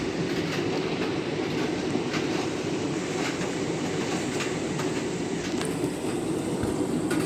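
Candy washing machine filling with water for a rinse: a steady rushing, rumbling noise.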